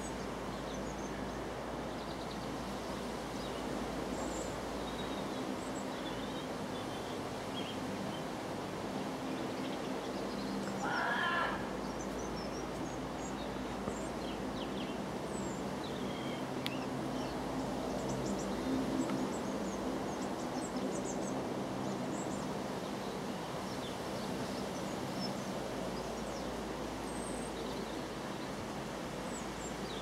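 Faint, scattered short high bird calls over a steady background of outdoor noise and low hum. About eleven seconds in comes one brief, louder wavering cry.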